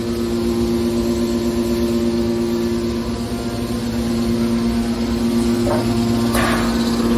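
Hydraulic metal baler's power unit running with a steady hum, with two brief sharper noises near the end, the second louder.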